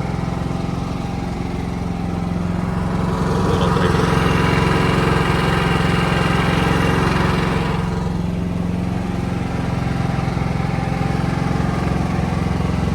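An RV's onboard generator engine running steadily, louder and brighter for a few seconds in the middle.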